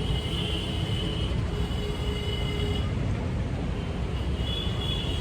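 Steady low rumble of vehicle noise, with faint high-pitched tones coming and going.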